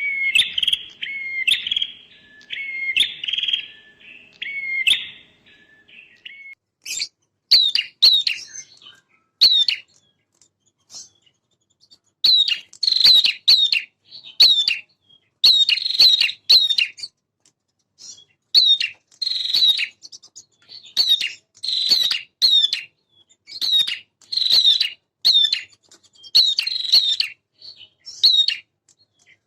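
Male prinia (prenjak) singing in quick repeated bursts of short, sharp chipping notes. The first few seconds hold lower phrases of a different pattern. After a brief pause the song turns into higher, sharper chip series that come every second or so.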